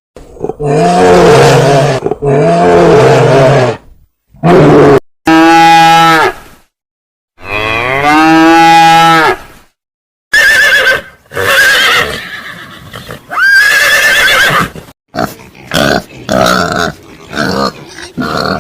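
Cattle mooing in a string of long, drawn-out calls, some rising and falling in pitch. From about halfway through they give way to shorter, higher-pitched calls of another animal.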